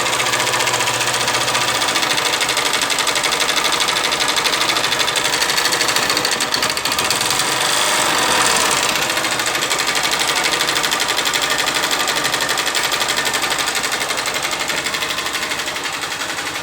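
Honda CG 125 Fan's single-cylinder four-stroke engine running with a loud, rapid mechanical clatter from the top end. The noise comes from an engine run dry of oil, its camshaft and rocker arms worn.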